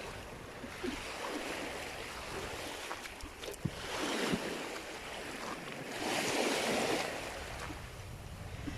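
Sea surf washing onto the shore, swelling twice, about four seconds in and again about six seconds in, with some wind on the microphone.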